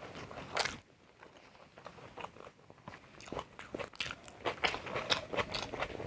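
Close-miked biting and chewing of crisp, crunchy food: a sharp bite about half a second in, then a run of crackly crunching that gets busier through the second half.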